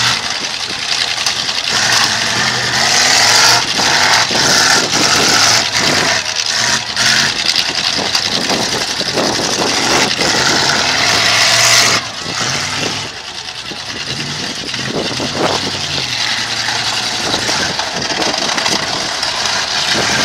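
Demolition derby car engines revving and running as the cars ram one another, with scattered knocks. The sound is louder for the first half and eases somewhat about twelve seconds in.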